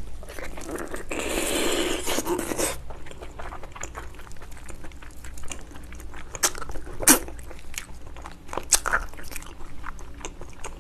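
Close-miked chewing of spicy braised ox foot (beef trotter), wet and sticky mouth sounds with scattered sharp clicks and smacks. A louder, denser stretch of eating noise comes about a second in and lasts nearly two seconds.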